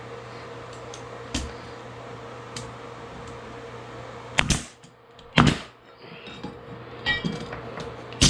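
Hammer blows on framing lumber: two loud strikes about four and a half and five and a half seconds in, with a few lighter knocks around them.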